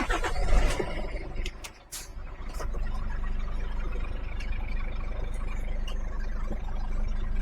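A loud rush of hissing noise at the start, dying away over about two seconds, then a lorry's diesel engine running steadily, heard from inside the cab.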